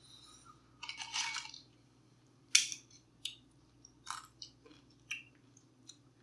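A person eating tacos: bites and chewing, heard as a scattered string of short, sharp mouth noises, the sharpest about two and a half seconds in.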